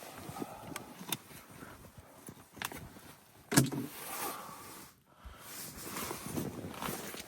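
Scattered knocks, clicks and scraping of hands working with materials, with one sharp knock about three and a half seconds in.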